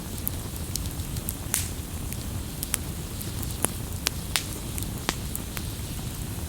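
Wood campfire crackling: irregular sharp pops and snaps from the burning wood over a low steady rush of the fire.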